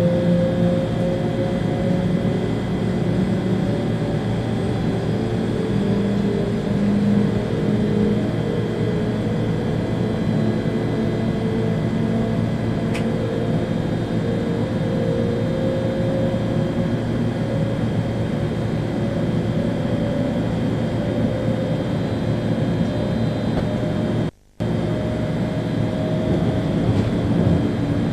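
Running noise in the cab of an ÖBB Railjet train, with the electric traction drive's whine slowly rising in pitch as the train gathers speed. The sound cuts out for a split second about 24 seconds in.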